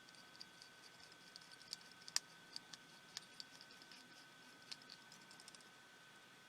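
Faint scattered clicks and ticks of a small screwdriver and tiny metal parts while the screws holding a pico projector's optical engine to its heat sink are taken out, the sharpest click about two seconds in, over a faint steady high-pitched hum.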